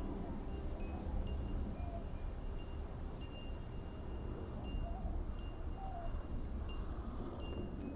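Wind chimes ringing irregularly in a strong wind, clear high tones starting at random and hanging on, over the low rumble of wind on the microphone.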